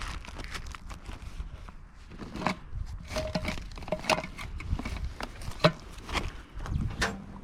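Rubbish and scrap being rummaged through by hand: irregular knocks, scrapes and rattles of objects being picked up and moved, with a few short ringing metallic tones about three to four seconds in.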